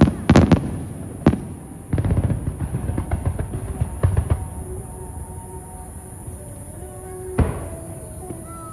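Aerial fireworks bursting. Several sharp bangs come in the first second and a half, then a run of crackling bursts from about two to four seconds in, and a single bang near the end.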